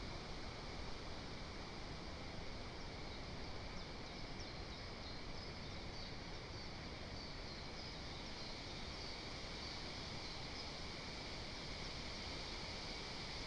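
Steady hiss of forest ambience picked up by the nest microphone, with a run of faint high chirps from a bird, about two a second, from about four seconds in until about eleven seconds in.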